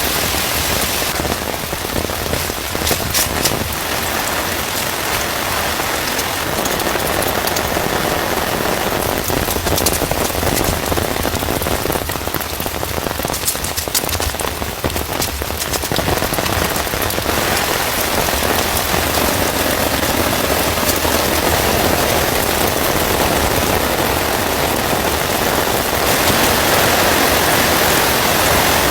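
Heavy rain pouring steadily onto a surface, with sharp taps of individual drops striking close by now and then.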